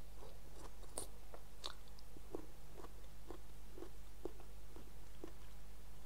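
A person chewing a mouthful of chicken and sour bamboo shoot soup close to the microphone: short, wet mouth clicks about twice a second, with a couple of sharper ones in the first two seconds.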